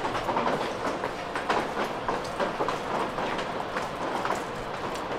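A train passing, with a dense, irregular run of wheel clicks and knocks.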